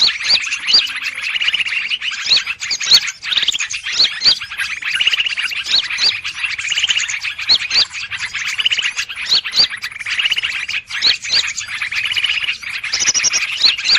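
A 'burung ribut' bird-trapping lure recording: many small birds chirping and calling at once in a dense, noisy commotion, without a break. Trappers play it to draw in greater green leafbirds (cucak ijo).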